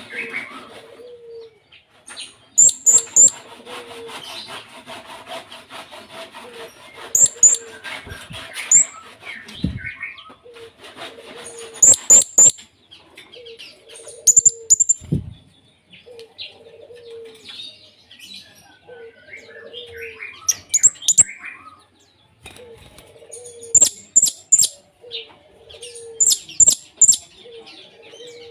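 Male blue-crowned hanging parrot (serindit) calling: very high, shrill chirps in quick clusters of two to four, repeated every few seconds. A short low note repeats steadily underneath.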